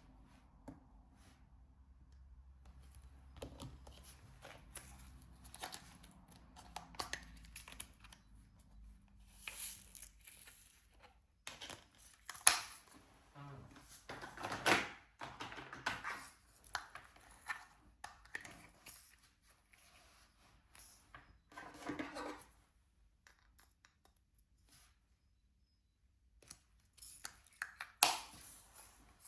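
Irregular clicks, taps and short rustles of hand work on a diamond painting: the drill pen, resin drills and plastic film or trays being handled. A faint low hum stops about ten seconds in.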